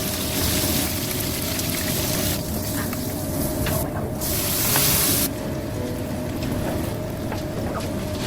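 Steady hissing and sizzling of food cooking in a pan, louder and brighter for the first couple of seconds and again briefly around the middle.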